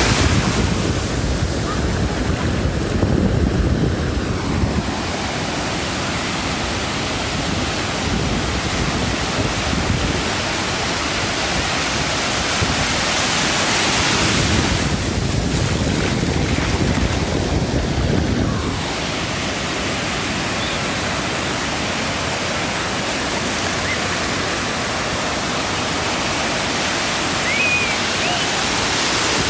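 Pacific Ocean surf breaking and washing up a sandy beach: a continuous rush of water, with waves crashing louder several times.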